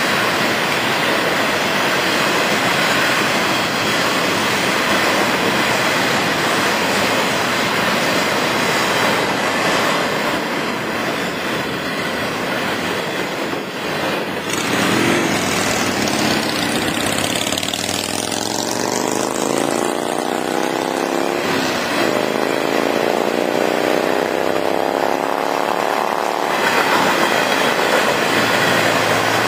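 Freight train of flatcars rolling through a grade crossing: steady rumble and clatter of steel wheels on rail. Over the middle of the passage a vehicle engine rises in pitch twice, as if accelerating through a gear change, on top of the train noise.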